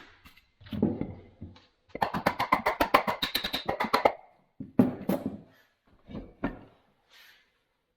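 Metal knocks and clanks from bench vise parts being worked, with a run of rapid, evenly spaced ringing metallic strikes, about nine a second, for two seconds in the middle.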